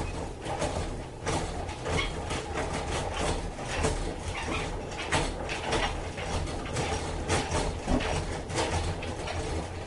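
Irregular mechanical clicking and clattering, many short knocks in quick succession.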